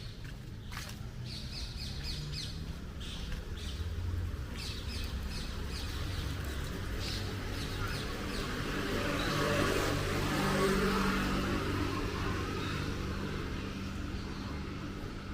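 Small birds chirping in quick repeated series, while a motor vehicle passes, its engine hum and tyre noise swelling to the loudest point about two-thirds through and then fading.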